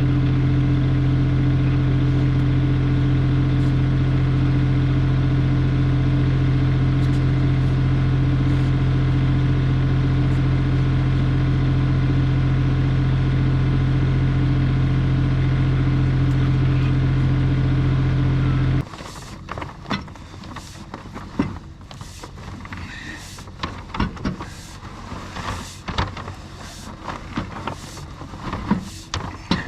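A motor running steadily at one speed, with a constant hum, cuts off abruptly about two-thirds of the way through. Scattered clicks and knocks follow.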